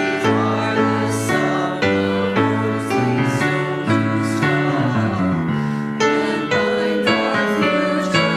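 Congregation singing a hymn with piano accompaniment; the bass steps down in a falling run about five seconds in.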